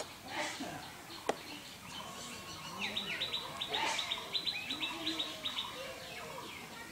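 A bird chirping in a quick run of short, repeated calls from about three seconds in until about five and a half seconds. About a second in there is a single sharp knock, like a knife striking a plastic cutting board.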